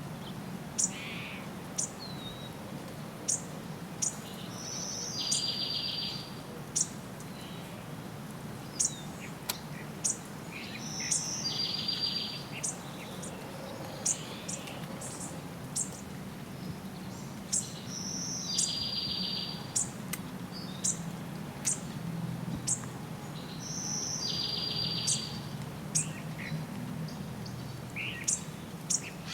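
Birds singing: a trill of about a second, repeated roughly every six to seven seconds, with many short high chirps in between. A steady low hum runs underneath.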